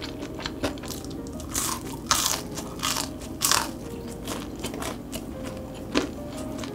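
Close-miked crunching of a deep-fried loach (chueo twigim) being bitten and chewed: a run of about four loud crunches in the middle, then softer chewing. Faint background music.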